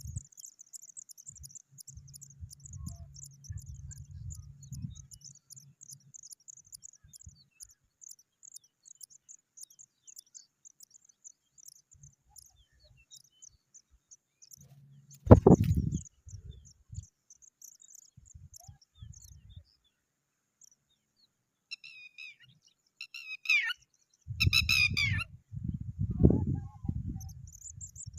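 An insect trills in a rapid, even run of high pulses through the first half, then stops after a loud thump. Near the end a bird gives a short cluster of high chirps, over low rumbling thumps.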